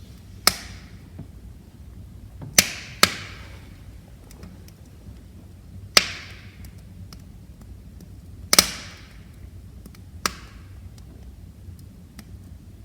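Wood fire crackling: six sharp pops from the burning logs, two of them close together near the start and the last, weaker one near the end, over a low steady rush of the flames.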